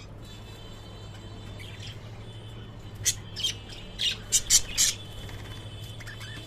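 Small pet parrots giving short, sharp squawks and chirps, a cluster of about six calls between three and five seconds in, over a steady low hum.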